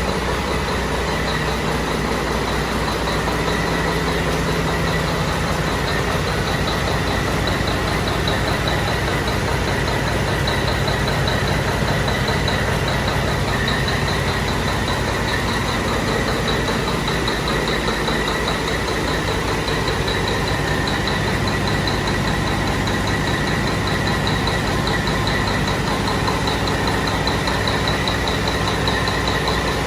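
Caterpillar C-12 inline-six diesel engine running steadily on an engine dynamometer during a test run, with a steady high-pitched whine over the engine note.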